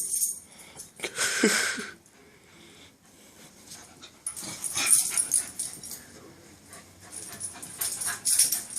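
A dog snuffling and wheezing through its nose in short bursts, about three times, with a brief whine in the first one.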